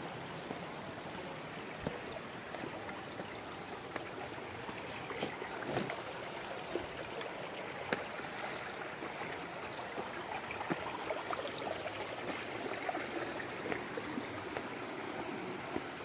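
Steady rushing of flowing water, like a stream, with many small scattered clicks and taps over it.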